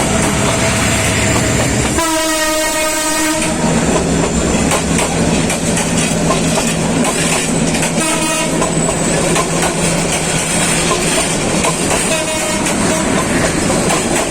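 Bangladesh Railway train running with a steady rumble of wheels on the track. A train horn sounds three times: a long blast about two seconds in, then two shorter blasts at about eight and twelve seconds.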